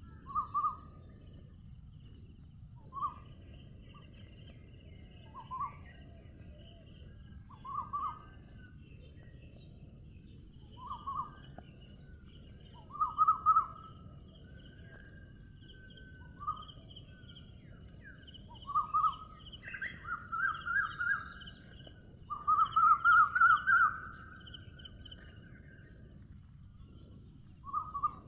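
Bird calling outdoors: short calls every couple of seconds, some run together into quick rattling series, the longest and loudest about three quarters of the way through. A steady high-pitched insect drone and a low rumble of outdoor noise sit underneath.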